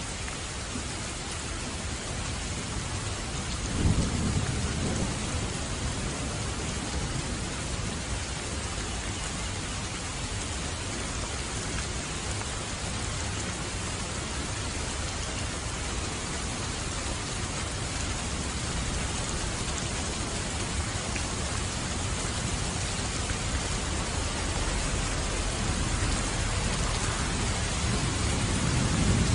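Steady rain falling, with thunder rumbling low about four seconds in and again near the end.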